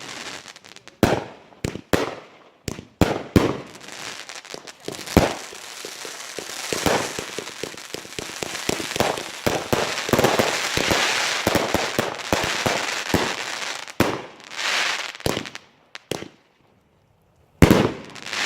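Fireworks going off: a run of sharp bangs, then a dense, lasting barrage of crackling and popping through the middle. It drops to near silence for a moment near the end before another loud bang.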